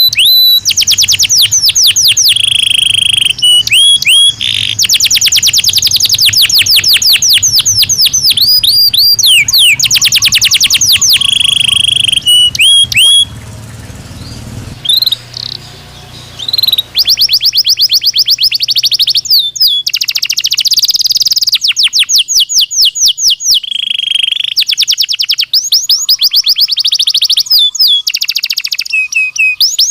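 Belgian canary singing: fast trills of rapidly repeated notes alternating with held, steady whistled notes, with a short lull about halfway through.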